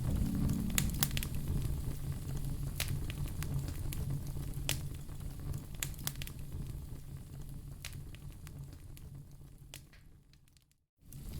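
Wood fire in a fireplace crackling, with scattered sharp pops and snaps over a low steady rumble. It fades out gradually and drops to a brief silence near the end.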